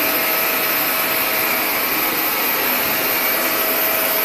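Vacuum cleaner running steadily: an even hiss with a faint constant whine.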